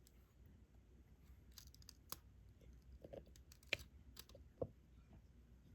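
Faint, scattered clicks and taps of a diamond-painting drill pen picking up resin drills and pressing them onto the sticky canvas, with two sharper clicks a little past halfway.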